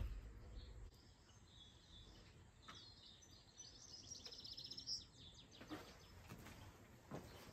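Near silence, with faint bird chirping in the background and a few soft knocks.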